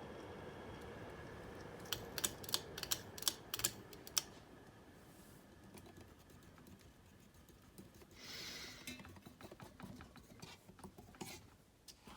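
A 1991 Hunter Low Profile ceiling fan running with a steady hum, then a quick run of sharp clicks and rattles about two seconds in, after which the hum dies away; a brief rustle and more scattered clicks follow later.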